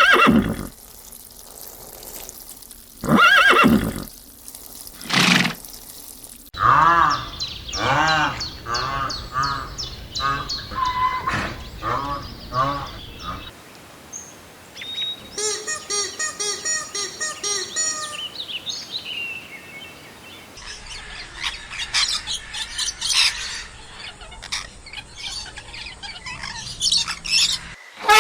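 A series of different farm-animal calls cut together: a few loud, separate calls in the first seconds, then many short wavering pitched calls, then rapid chirping and twittering.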